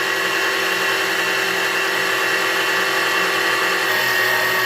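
Small metal lathe's motor running with a steady whine while taking a 15-thousandths cut in an aluminum ring blank; the load of the deep cut makes the motor bog down.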